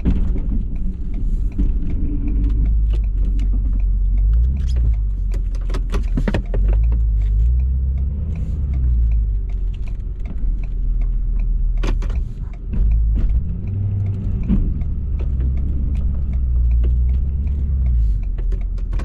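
A 2018 Ford F-350's 6.7 L Powerstroke diesel V8 running while the truck drives along, its pitch rising and falling with speed. There is a steady low rumble and several sharp clicks and rattles.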